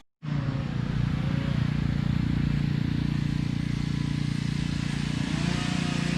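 A small gasoline engine running steadily at a constant speed, with a slight rise in pitch near the end.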